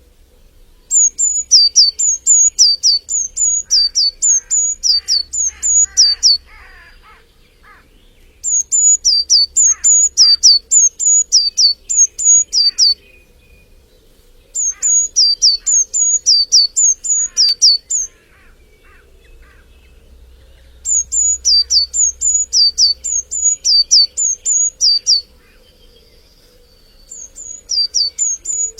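A songbird singing five bouts of rapidly repeated, high, down-slurred whistled notes, each bout lasting about four to five seconds with short pauses between them. Fainter calls of other birds come in under the song.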